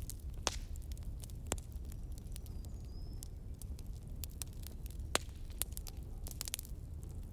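Wood fire crackling in a fireplace, with scattered sharp pops, a few louder ones and a quick cluster near the end, over a steady low rumble of wind.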